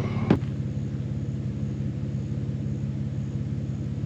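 Jeep Wrangler engine idling steadily, with one sharp knock near the start.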